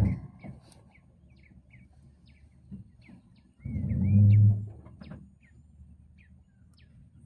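Birds chirping repeatedly, short quick calls scattered through. A low thump comes right at the start. About four seconds in, a loud low hum lasts about a second and is the loudest sound here.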